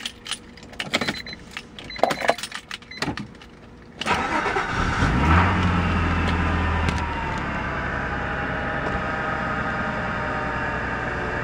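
A few clicks and knocks of handling, then the 1992 Acura Legend's 3.2-litre V6 cranks and starts about four seconds in, flares up briefly, and settles into a steady idle. The engine has a knock that appeared after overheating, which the owner takes for rod knock rather than piston slap.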